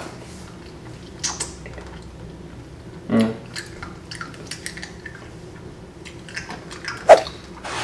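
A hard cinnamon candy stick being chewed in the mouth, with scattered small clicks and crunches. A short voiced sound comes about three seconds in, and a sharp click near the end is the loudest sound.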